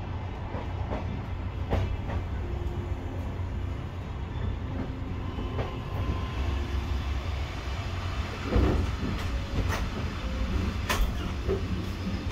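Passenger train running, a steady low rumble with scattered knocks from the wheels on the track.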